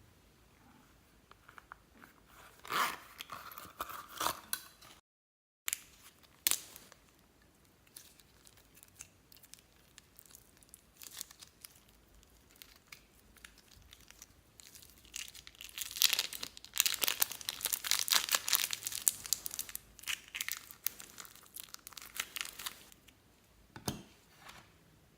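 Slime being squished, stretched and folded by hand, crackling with many small sharp pops. The crackling comes in short bursts, grows dense and continuous for several seconds past the middle, and ends with one sharper snap.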